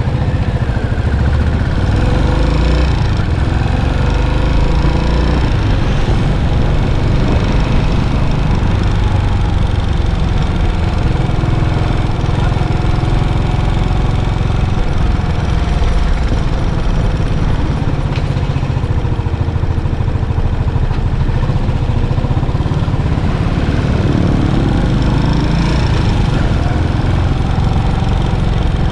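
Yamaha SR400's air-cooled single-cylinder four-stroke engine running through its stock muffler. The engine sound is steady and strongest at the low end, and its pitch rises and falls gently.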